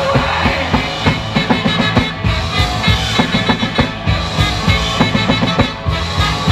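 Live rock band playing an instrumental passage between sung lines, with a busy, driving drum kit beat under sustained bass and instrument tones.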